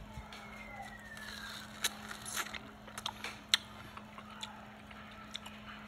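Close-up chewing of half-ripe, still-crunchy mango, with a handful of short, sharp crunches at uneven intervals.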